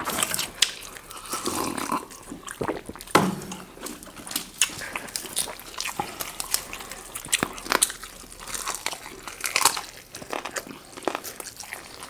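People chewing and biting into chicken leg pieces, with scattered short clicks and crunches throughout.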